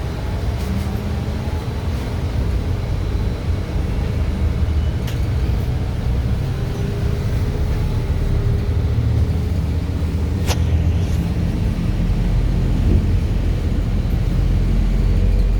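Belkommunmash BKM 32100D trolleybus under way: a steady low rumble of the running gear and road, slowly growing louder, with faint hum tones from the electric drive. Two sharp clicks or knocks stand out, one about five seconds in and a louder one about ten seconds in.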